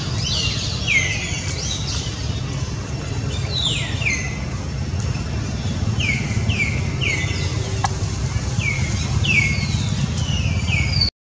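Birds calling: a run of quick downward-sliding chirps, repeated in groups of two or three, over a steady low rumble.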